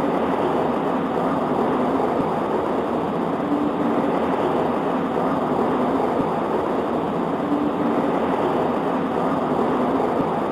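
Steady rain pattering on a window glass, an even unbroken hiss with no thunder in this stretch.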